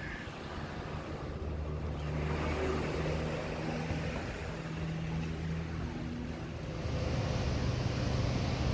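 A motor engine running with a steady droning hum over a wash of wind and water noise; about seven seconds in the hum shifts to a different steady pitch and grows a little louder.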